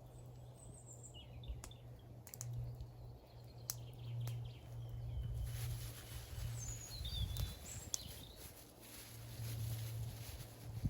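A few short, high bird chirps, some near the start and more about two-thirds through, over a steady low hum, with scattered light clicks and knocks.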